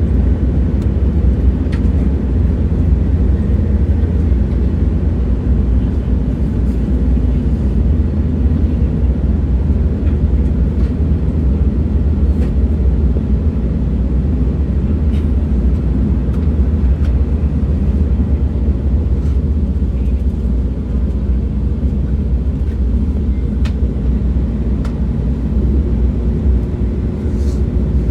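Train running at steady speed: a continuous deep rumble with a few faint clicks scattered through.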